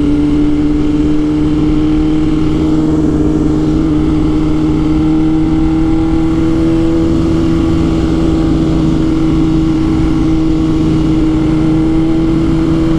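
BMW S1000RR inline-four motorcycle engine holding a steady, loud note, its pitch creeping slowly upward, with a constant rush of noise underneath.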